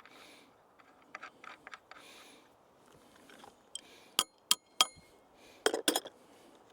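Small metal hardware and tools clinking during hand assembly work. There are light ticks about a second in, three sharp ringing clinks about four seconds in, and a quick cluster of louder knocks near the end.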